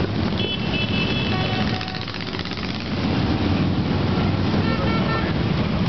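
A steady stream of motorcycles riding past, engines running, growing louder again about three seconds in.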